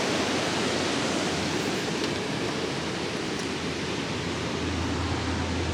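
Steady rushing noise of a severe thunderstorm's heavy rain and wind.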